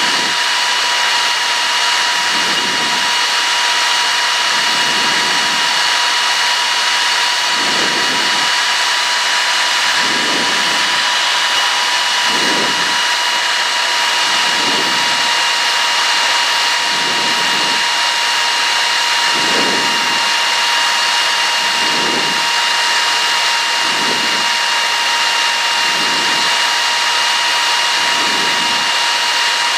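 Cessna 152's four-cylinder Lycoming engine and propeller droning steadily in the cockpit on final approach, with a high steady whine over it and a slow swell in the low drone every two seconds or so.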